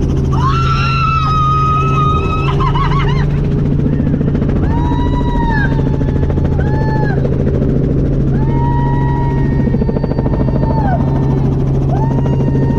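Helicopter engine and rotor running steadily, with a series of held high tones rising and falling over it.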